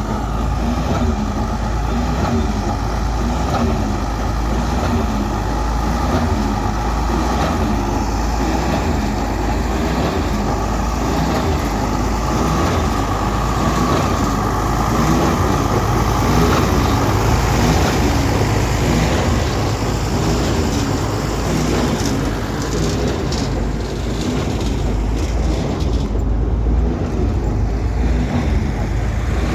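Steady motor vehicle noise: a continuous low rumble of engine and road or wind noise with no pauses.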